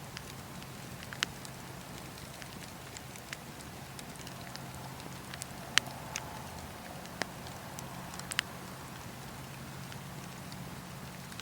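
Campfire burning and crackling: a steady low rush of flame under frequent small snaps, with a few sharp, louder pops, the loudest about halfway through.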